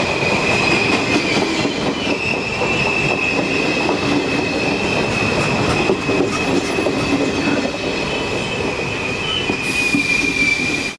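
Regional passenger train's coaches rolling along the platform, with a steady high-pitched wheel squeal over the rumble of wheels on the rails.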